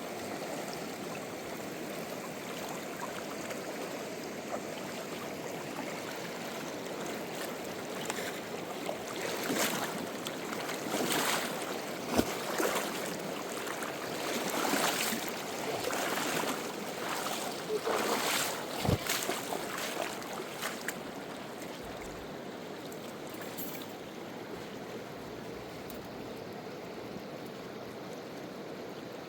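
River water flowing steadily, with a stretch of irregular splashing in the middle and a couple of brief knocks.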